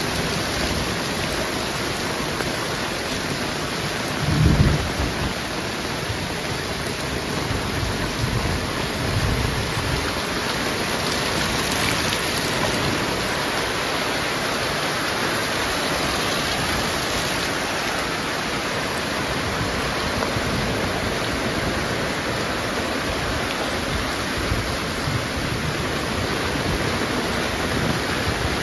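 Heavy rain pouring steadily, with a brief low rumble about four seconds in.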